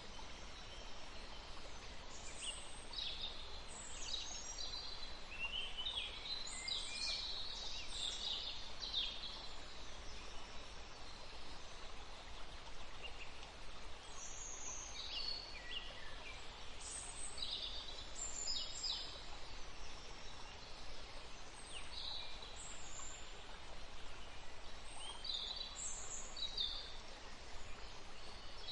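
A forest stream running steadily, with songbirds singing and chirping over it in short high phrases, busiest in the first third and around the middle.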